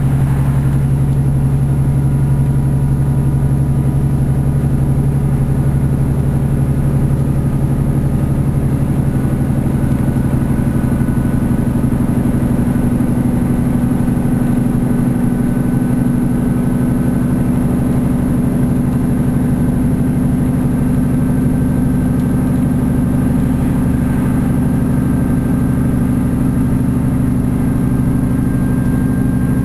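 Interior sound of a Class 150 diesel multiple unit under way: the underfloor Cummins six-cylinder diesel engine and transmission running steadily under load, with wheel and track rumble. The engine tone rises slowly as the train gathers speed.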